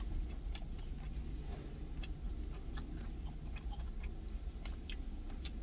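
A person chewing food with the mouth closed: small scattered clicks and smacks over a steady low hum.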